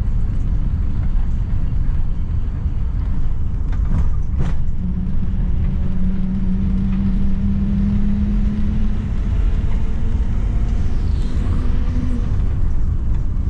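Steady low rumble of a moving vehicle. A steady hum rises over it from about a third of the way in until near the end, and there are two short clicks around a third of the way in.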